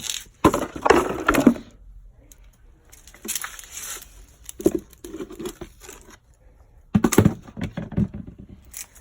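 Clutter being shifted by hand: irregular knocks, scrapes and clatter in several bouts, loudest about a second in and again near the end.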